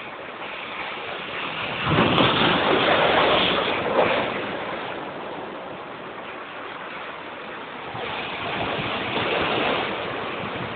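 Big sea waves surging and crashing against a seawall fence: one loud surge about two seconds in with a sharp slam near the end of it, then a second, weaker surge near the end.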